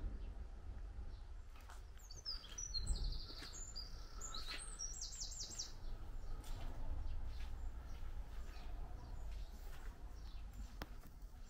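Small birds chirping, with a fast trill about three seconds in and a quick run of high notes around five seconds, over a low steady rumble and scattered faint clicks.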